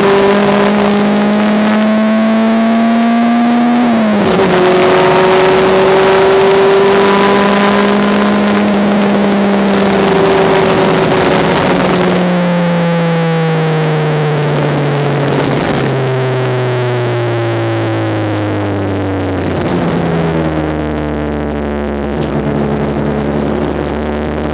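Honda Civic race car engine heard onboard: the revs climb under acceleration, drop sharply at a gear change about four seconds in, then hold before falling steadily as the car slows, ending on a low, steady note. A constant rush of wind and road noise runs underneath.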